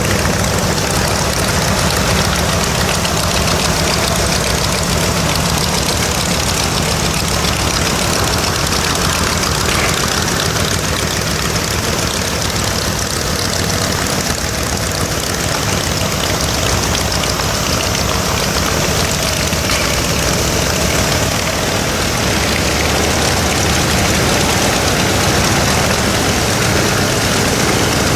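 Nakajima Sakae 14-cylinder twin-row radial engine of an A6M5 Zero fighter, running steadily on the ground at a constant speed.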